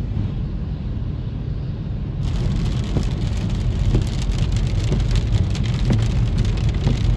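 Rain pattering, setting in suddenly about two seconds in, over the steady low rumble of a car.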